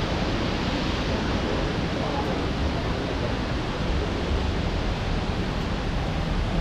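Shifen Waterfall's water falling and rushing in a steady, loud noise.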